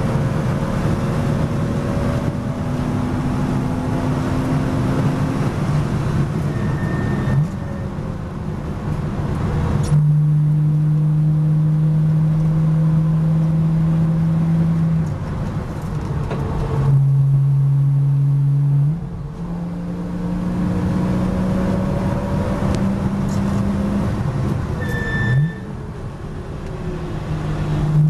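Porsche Boxster S race car's engine heard from inside the cockpit, running hard at track speed over wind and tyre noise. Several times the engine note steps down or dips as the driver lifts and changes gear.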